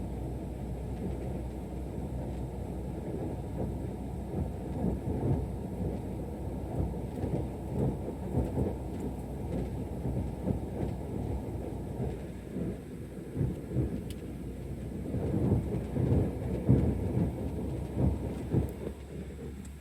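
Cabin noise in an Embraer E190 airliner in flight: a steady low rumble from the engines and airflow, with irregular rumbling swells that grow strongest in the last few seconds.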